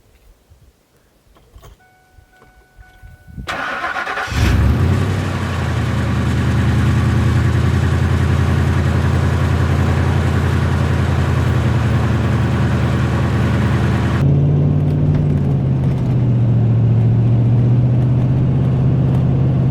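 Pickup truck engine cranked over by its starter, catching within about a second and then idling steadily; about ten seconds later the idle note steps to a different pitch.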